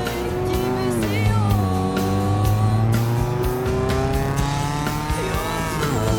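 A song playing with a car engine revving over it; the engine's pitch rises and falls slowly, dropping about a second in and again near the end.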